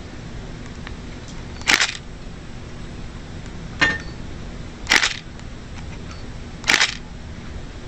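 Four short, crisp crunches of food being bitten or chewed, spaced one to two seconds apart, over a steady low background hum.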